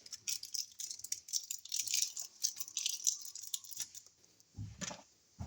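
Rapid rattling and clicking of small hard objects being handled, for about four seconds, followed by a couple of short low thumps near the end.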